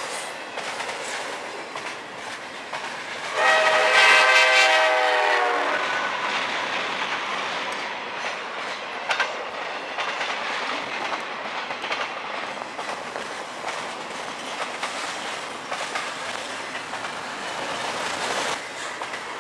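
Double-stack intermodal freight cars rolling past close by, a steady rumble with clicking from the wheels over rail joints. About three seconds in, a locomotive's multi-chime air horn sounds for about two seconds, its pitch sliding slightly down as it passes, louder than everything else.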